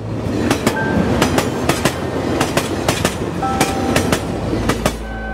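A train passing at speed: a steady rumble of wheels on the track with paired clickety-clack beats over the rail joints, a little under two pairs a second.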